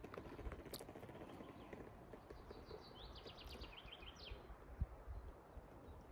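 A bird singing a short, rapid trill of quick high notes about three seconds in, over faint ambience with soft low thuds, one sharper a little later.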